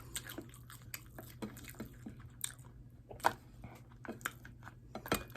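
Close-miked chewing and lip-smacking on hot wings: a run of short, irregular wet clicks and smacks, one louder smack about three seconds in, over a steady low hum.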